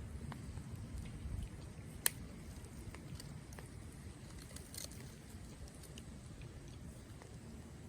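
Wood fire burning in a Coleman Fire Disk fire pit, crackling with scattered small ticks and one sharp pop about two seconds in, over a steady low rumble.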